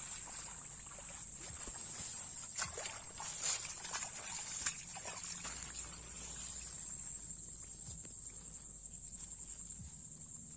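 Insects in a paddy field keeping up a steady high-pitched trill. Short clicks and rustles of handling or footsteps come in the first half and die away after about five seconds.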